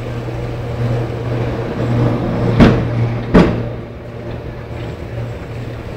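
Steady low mechanical hum, like a running engine, with two sharp knocks a little under a second apart near the middle.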